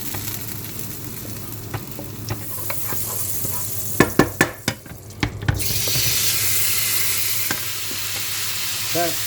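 Chicken breast frying in olive oil in a pan, sizzling steadily. A quick run of utensil knocks against the pan comes about four seconds in, after which the sizzle grows louder and brighter.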